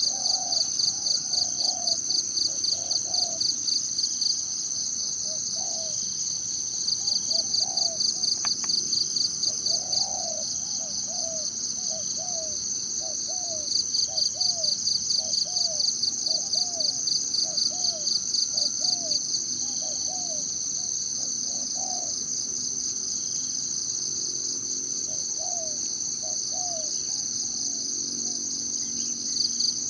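High-pitched insect chorus, trilling steadily and swelling into loud pulsing bursts lasting a few seconds each. Under it a bird repeats short, low calls about twice a second.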